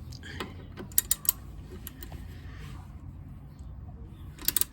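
Ratchet wrench clicking while tightening bolts on a motorcycle's rear brake caliper: three sharp clicks about a second in and a quick cluster of clicks near the end.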